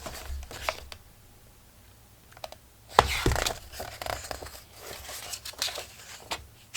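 Paper pages of a collage book rustling and crinkling as it is handled, with a sharp knock about three seconds in.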